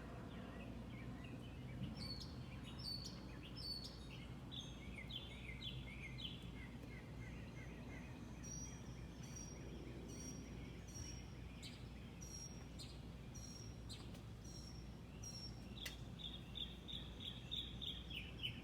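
Wild birds calling: series of short, falling call notes, joined about halfway through by short high chirps, then a fast run of repeated notes near the end, over a steady low background hum.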